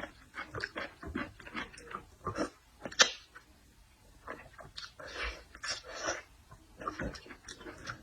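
Close-miked eating of seafood: irregular wet chewing and lip-smacking sounds, with a sharp click about three seconds in and a longer noisy stretch of mouth sounds around five to six seconds in.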